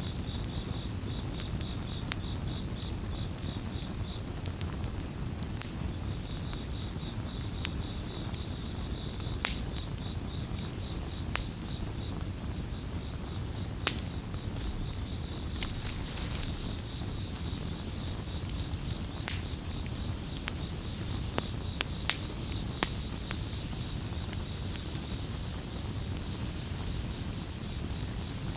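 Wood campfire crackling, with irregular sharp pops over a low steady rumble of burning, while crickets chirp in a fast, pulsing high-pitched trill that drops out briefly a few times.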